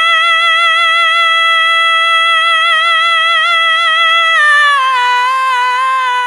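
A woman singer holding one long, high note with vibrato and no audible accompaniment, stepping down to a lower note about four and a half seconds in and holding that too.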